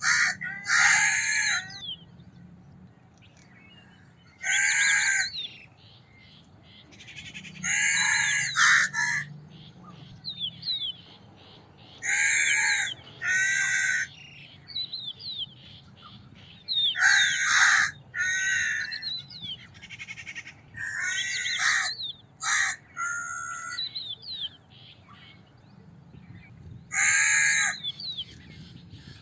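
Crow cawing, a dozen or so harsh calls about half a second long, some single and some in quick pairs, with gaps of a few seconds between them. Small birds chirp faintly in between.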